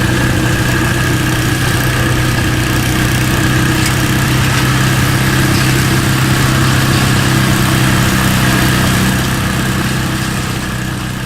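Briggs & Stratton 4 hp single-cylinder engine of a late-1980s Montgomery Ward snowblower running at a steady speed, getting a little quieter near the end.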